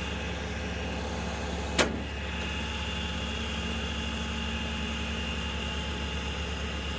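Tow truck's engine idling steadily, with a single sharp click or knock a little under two seconds in.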